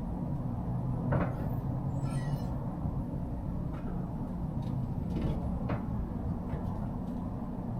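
Semi-truck engine and road drone heard inside the cab while driving, steady throughout, with a few cab rattles and clicks and a brief wavering squeak about two seconds in.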